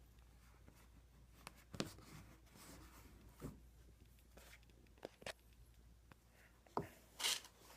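Faint handling sounds: a few light knocks and clicks, scattered a second or two apart, with brief rustles, as hands work tape onto a plastic bumper.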